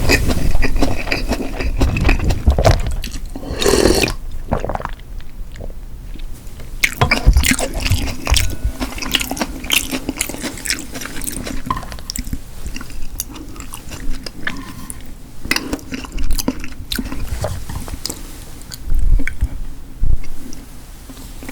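Close-miked eating sounds: a person chewing and biting food, with dense, irregular wet mouth clicks and a louder burst about four seconds in.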